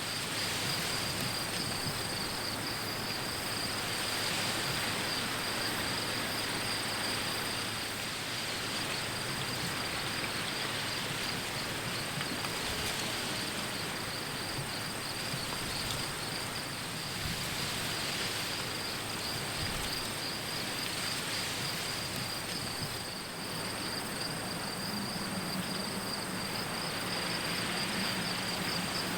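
A steady chorus of insects, a continuous high trill with a second, higher one above it, over an even hiss. A faint low hum comes in near the end.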